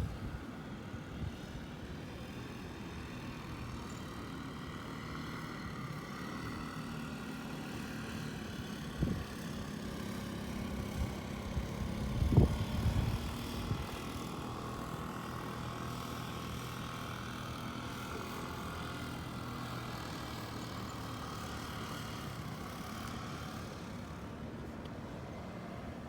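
A vehicle engine running steadily, a low hum under a noisy background. A few thumps come about nine and twelve seconds in, the later one the loudest.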